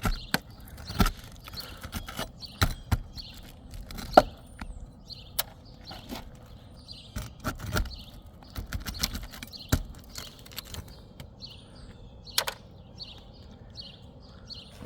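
Irregular sharp clicks, taps and scrapes of a tool working under asphalt shingles to pry out roofing nails, the loudest knock about four seconds in. Birds chirp repeatedly in the background.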